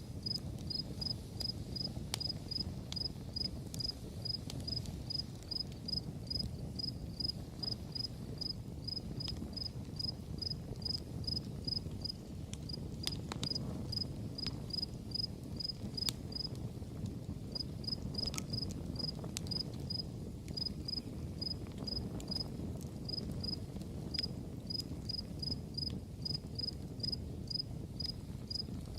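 Crickets chirping in a steady, even rhythm, about two chirps a second, breaking off briefly about seventeen seconds in. Beneath them a campfire burns with a low steady rumble and the odd sharp crackle.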